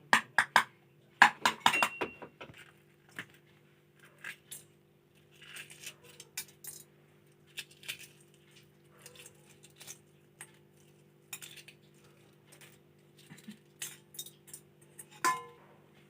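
Kitchen utensils and dishes clinking and knocking: a quick run of sharp metallic clinks in the first couple of seconds, then scattered clinks and taps, over a steady low hum.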